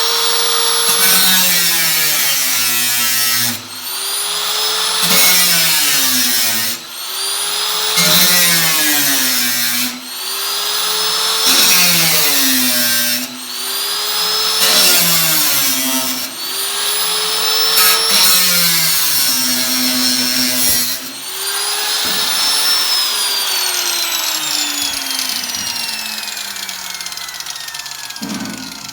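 Electric power tool motor running, its pitch dipping under load and recovering again about every second and a half, then switched off and winding down over several seconds.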